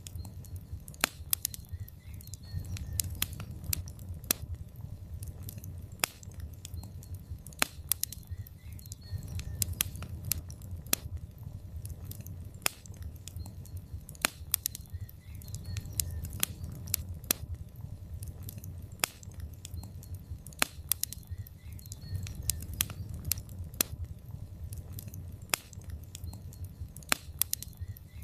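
Wood logs burning in a fireplace: irregular sharp crackles and pops over a low rumble of the flames that swells and eases every few seconds.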